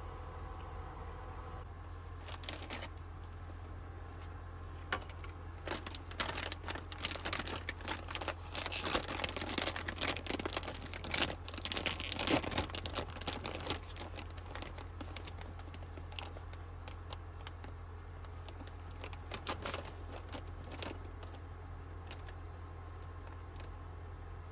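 Irregular crinkling and rustling, like packaging or a plastic bag being handled, thickest through the middle, over a steady low hum.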